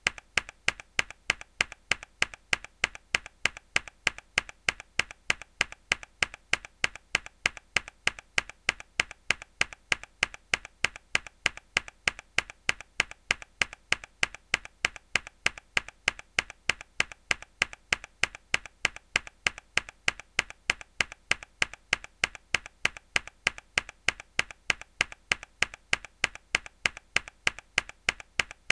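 Mechanical keyboard key pressed hard over and over, each press a sharp clack, repeating in a steady, even rhythm several times a second.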